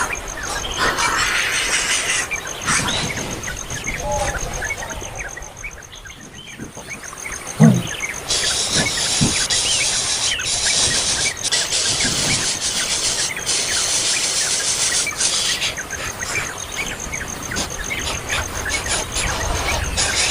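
Small birds chirping repeatedly in quick short calls. A high, steady buzz cuts in about eight seconds in and stops around fifteen seconds, and a brief low thump comes shortly before it.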